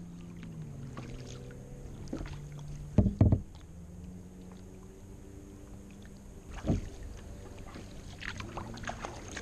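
A small boat motor hums steadily, its pitch dipping then rising, with a couple of loud knocks about three seconds in and another near seven seconds.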